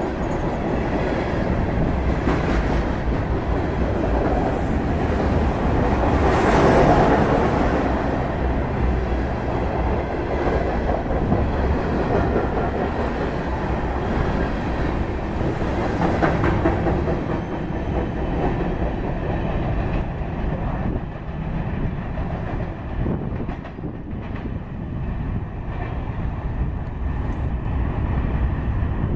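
Freight train of covered hopper cars rolling past close by, steel wheels running on the rails with a continuous dense rattle. In the second half the sound turns duller and a little quieter as the train moves away.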